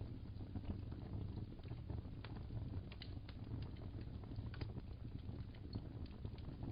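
Wood fire crackling in a fireplace: a steady low rumble with irregular small pops and snaps.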